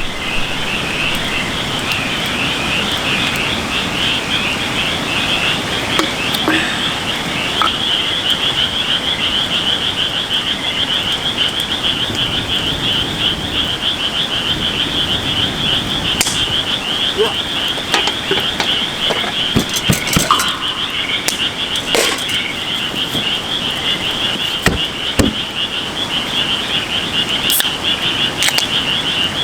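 Dense, continuous chorus of high, rapidly pulsing animal calls, with a few short clicks and knocks scattered through it.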